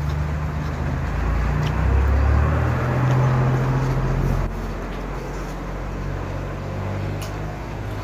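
A motor vehicle engine running, a steady low hum whose pitch shifts a couple of times and which drops in level about four and a half seconds in. A few faint clicks sound over it.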